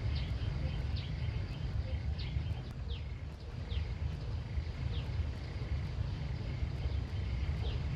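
Countryside ambience: a steady low rumble under a bird repeating short, high, falling chirps about once a second, with fainter chirping lower in pitch.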